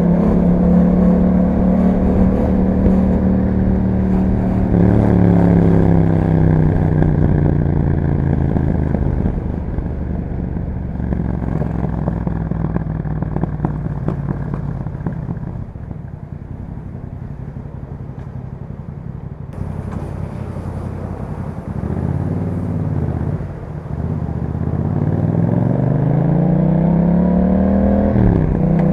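Yamaha MT-07's parallel-twin engine breathing through an aftermarket Akrapovic exhaust with a dB killer, heard while riding. The engine note holds steady, then falls away over several seconds as the bike slows. It runs lower and quieter through the middle, then climbs again in a rising rev near the end.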